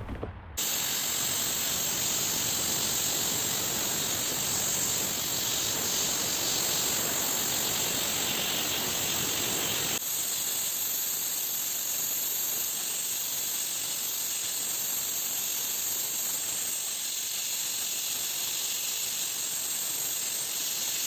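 Steady hiss of a compressed-air gun as the antique Singer sewing machine's stand is sandblasted and spray-lacquered, with a slight change in the hiss about halfway through.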